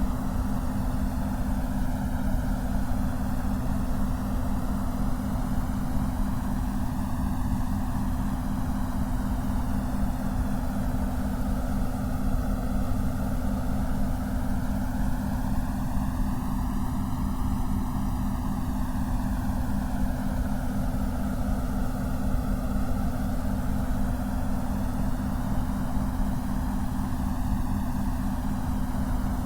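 Synthetic white-noise track for concentration: a steady hiss with a slow phasing whoosh sweeping up and down through it, over a steady low hum of tones near 200 Hz.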